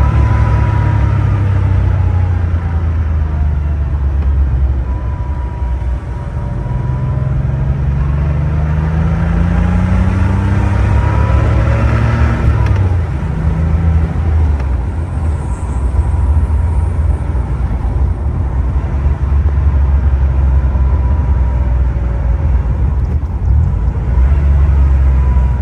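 1989 Porsche 911 Speedster's air-cooled 3.2-litre flat-six engine under way: the engine note climbs under acceleration, drops sharply at a gear change about halfway through, then runs on at a lower, steadier pitch.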